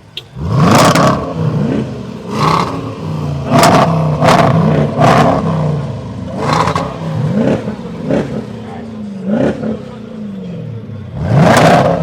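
A car engine being blipped over and over, about ten quick sharp revs that rise in pitch and drop back to idle in between.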